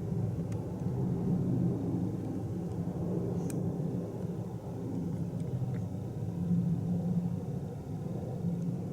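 Steady low rumble of distant aircraft and traffic noise, with a few faint clicks.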